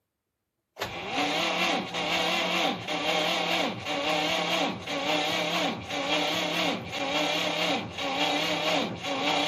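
Electric starter motor slowly cranking a cold UAZ engine, its whine dipping in pitch about once a second as each compression stroke drags on it: sluggish cranking from the deep cold after months of standing.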